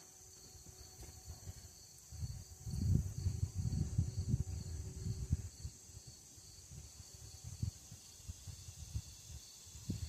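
Faint steady chirping of crickets or other insects, with a low, irregular rumbling noise for a few seconds starting about two seconds in.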